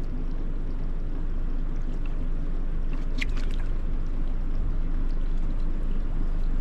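Boat motor running steadily at low speed, a continuous low rumble, with a brief cluster of clicks about three seconds in.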